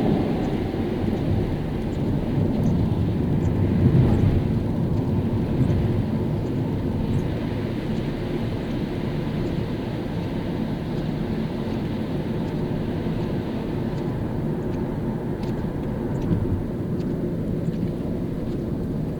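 A car driving on a wet road in the rain: a steady low rumble of tyres and road noise, a little louder in the first few seconds, with faint scattered ticks of raindrops.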